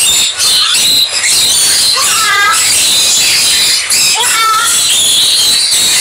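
Birds calling: two short squealing calls, one about two seconds in and another a little over four seconds in, over a constant high-pitched chorus of background chirping.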